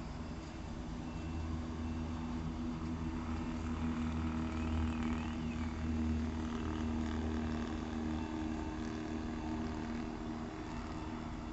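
Heavy diesel engines of construction cranes running steadily under load, swelling a little in the middle, with faint short high beeps.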